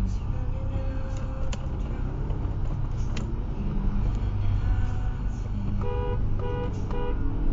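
Steady rumble of road and engine noise inside a car driving on a motorway. Three short pitched notes sound near the end.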